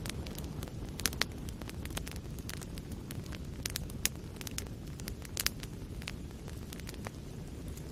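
Wood fire burning in a fireplace: a steady low rumble of flame with sharp crackles and pops from the burning logs, several a second, the loudest about a second in and again near the middle.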